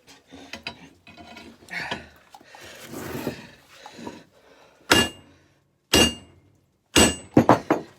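Light metallic clinking and scraping, then a hammer striking hot steel on an anvil with a metallic ring: three single blows about a second apart, then a quick run of blows near the end.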